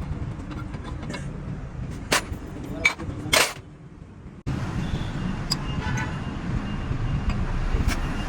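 Steady low rumble of road vehicles at the roadside, with a few sharp knocks about two to three and a half seconds in. The sound drops away and cuts in abruptly at about four and a half seconds.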